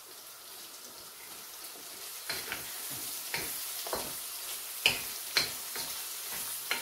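Diced hot dog and red onion sizzling in a little oil in a wok, a steady hiss. From about two seconds in, a wooden spatula stirs the mix, scraping and knocking against the pan in irregular strokes, loudest around five seconds in.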